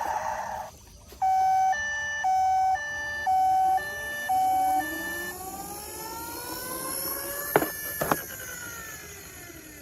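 Electronic siren of a toy emergency vehicle sounding a hi-lo two-tone for about four seconds, then switching to a slow rising and falling wail that fades away. Two sharp clicks come near the end.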